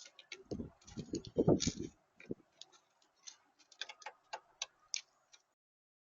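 Irregular sharp clicks and taps, with a cluster of louder low thuds in the first two seconds. The sound cuts off abruptly about five and a half seconds in.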